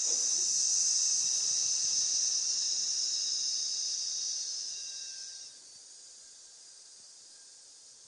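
Taoist lung healing sound: a long "sss" hiss breathed out slowly through the teeth. It holds steady for about five seconds, then trails off into a faint hiss.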